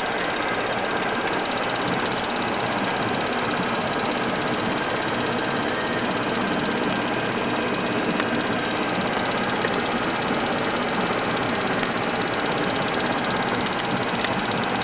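Steady turbine and airflow noise inside a Boeing 737-200 freighter's cockpit, with a faint steady whine.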